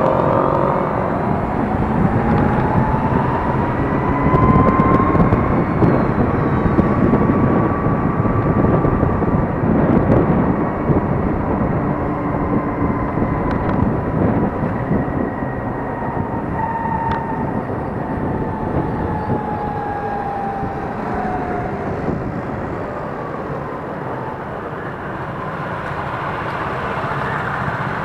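Riding a Gogoro 2 electric scooter: steady wind and road noise, with the motor's thin whine rising in pitch over the first couple of seconds, holding, then falling away about twenty seconds in.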